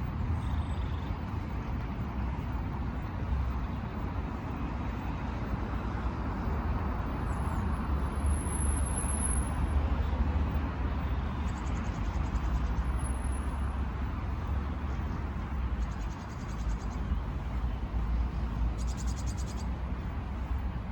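Steady rumble of road traffic, cars passing, with a thin high whistle about eight seconds in.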